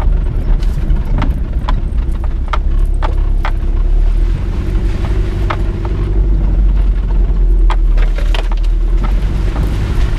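Car driving, heard from inside the cabin: a steady low engine and road rumble with many irregular clicks and rattles.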